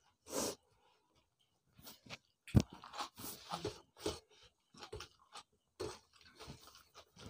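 Close chewing of people eating rice with chicken curry by hand, in irregular short bursts, with fingers working the rice on steel plates. One sharp knock comes about two and a half seconds in.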